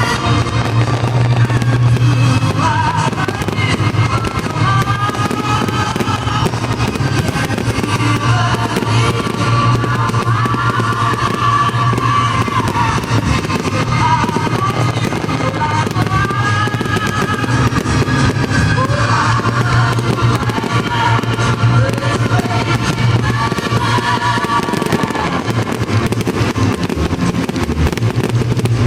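Fireworks banging and crackling through a song with singing played alongside the display.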